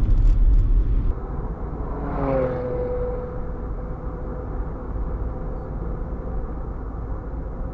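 Road vehicle noise: a low engine-and-road rumble, and about two seconds in a passing vehicle's whine falls in pitch, then holds as a steady tone under the traffic rumble.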